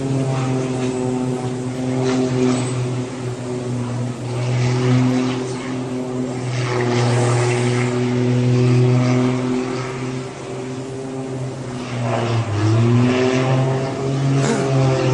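Propeller aircraft engine droning steadily overhead. Near the end its pitch dips and then climbs again.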